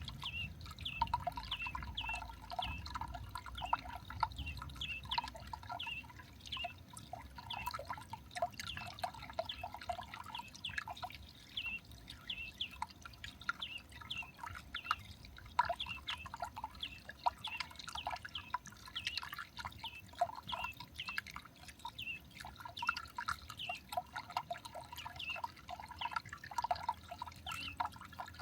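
Small garden birds at a feeder calling, a steady run of short high chirps, several a second, overlapping one another.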